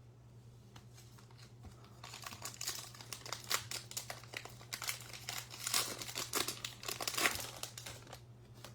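Baseball card pack wrapper being torn open and crinkled: a dense crackling that starts about two seconds in and lasts several seconds, over a steady low hum.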